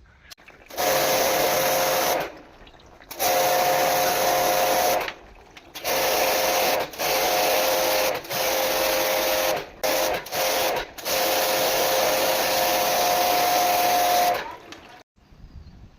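Jet pump spraying a high-pressure water jet while cleaning a split air conditioner, in about seven bursts. Each burst is a loud hiss of spray over a steady motor hum, stopping and starting again, and the last and longest ends near the end.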